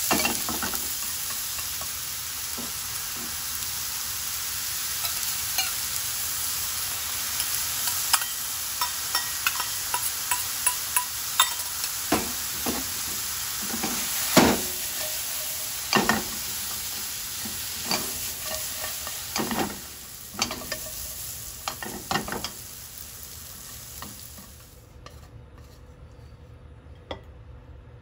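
Lotus root and shimeji mushrooms stir-frying in a pan, sizzling steadily, with repeated clacks of a utensil against the pan as it is tossed. A few seconds before the end the sizzle cuts off, and only a few scattered clicks remain.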